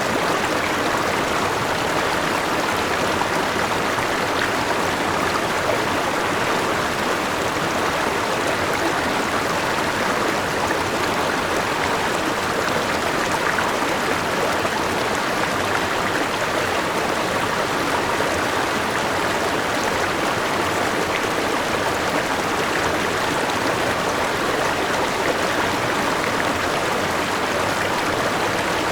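Forest river and small waterfall rushing steadily, a constant, even water noise.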